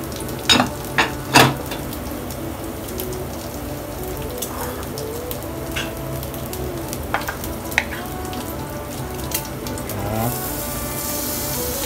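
Eggs sizzling and frying in a small aluminium egg pan over a gas burner. Two sharp metal clinks from the pan lid come in the first second and a half, and the sizzle grows louder and hissier near the end as minced pork goes into the pan.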